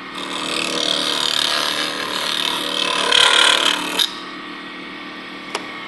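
Turning tool cutting a spinning wooden sphere on a lathe for about four seconds, then lifting off abruptly, followed by a single sharp click near the end. The sphere is nearly round, so the interrupted cut from out-of-round spots is barely audible now.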